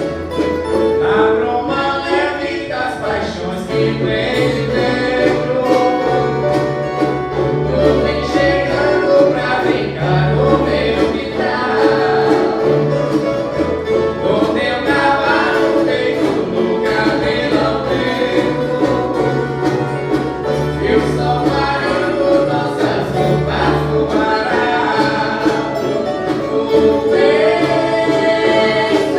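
Viola caipira ensemble playing a Christmas song, with strummed and plucked strings over bass notes and voices singing together.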